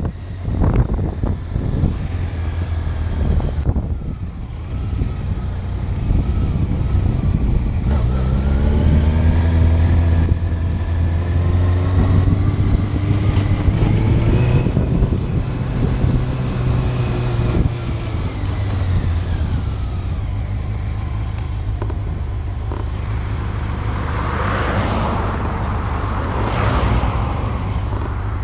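Motorcycle engine running under way, with wind noise on the microphone. About eight seconds in, the engine note rises as it accelerates, holds, then falls away as the throttle eases off. Two brief rushes of noise come near the end.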